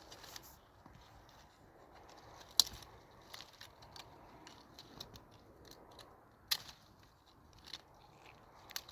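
Scattered sharp clicks and taps over faint rustling, with two louder knocks, one about a third of the way in and one about two-thirds in: small objects being handled.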